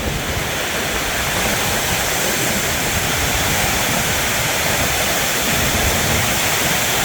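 Heavy storm rain pounding a metal roof, a deafening, steady noise, with wind-blown rain driving in.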